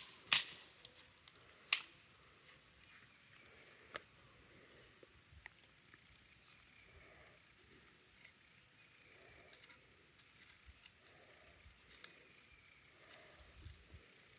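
Quiet jungle ambience with a steady high insect drone, and a faint low call repeating about once a second through the latter part. A few sharp knocks come in the first two seconds, and one more about four seconds in.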